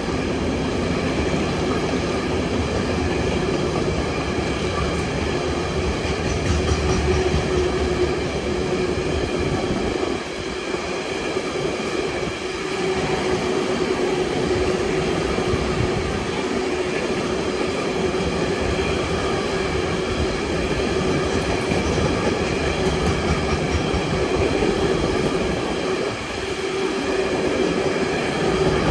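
Container freight train's flat wagons rolling past close by: a steady rumble and rattle of steel wheels on rail.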